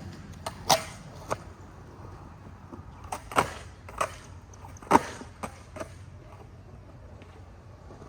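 Skateboard popping and landing tricks: a series of sharp wooden clacks of the deck and wheels hitting the ground, two early on and a quicker run of about five in the middle, the loudest in the middle.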